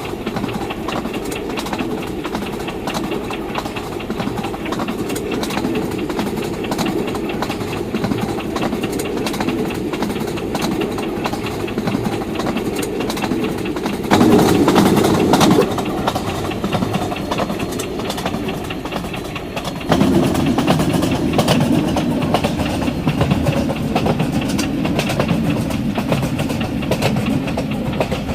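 Train rumbling along the rails with a steady clatter of wheels on track. It gets louder for a second or two about halfway through, and steps up again about two-thirds of the way in.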